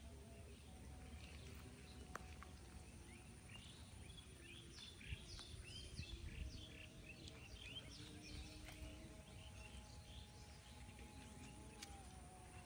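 Faint outdoor ambience: small birds twittering in a quick run of short chirps through the middle, over a low steady rumble.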